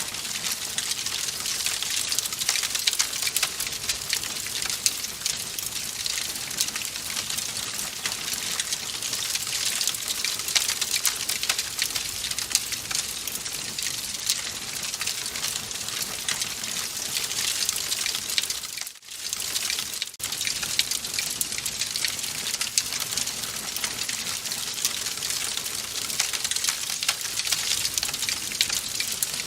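Wood fire crackling in a fireplace: a dense, steady run of small pops and snaps over a hiss. It drops out for a moment about two-thirds of the way through, then carries on.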